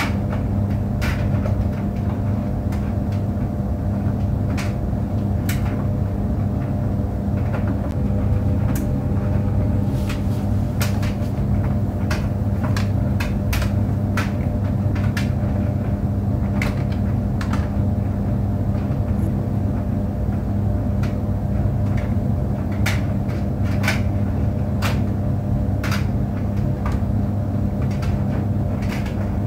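Tumble clothes dryer running, a steady low hum and drone, with light clicks and taps at irregular moments throughout.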